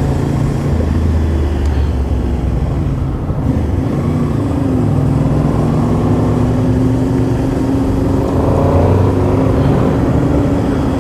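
Motorcycle engine running steadily while riding, with road and wind noise; the engine note rises a little about eight seconds in.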